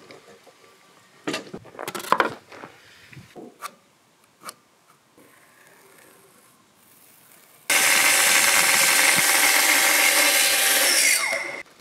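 A few light knocks and taps, then about two thirds of the way in a Festool plunge-cut track saw starts abruptly and runs steadily along its guide rail through an oak beam, stopping just before the end.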